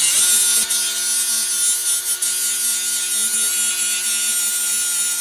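Handheld electric power tool running steadily while working on a metal brake bracket: a high-pitched whine over a bright hiss, with small dips as it bites.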